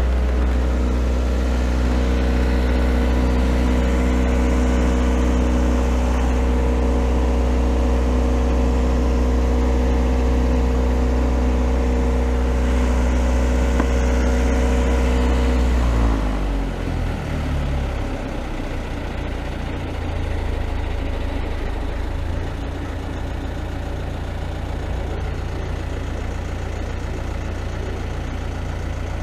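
Perkins 4-108 four-cylinder marine diesel engine running at a steady speed, then about halfway through its revs drop and it settles into a slower, lower-pitched idle.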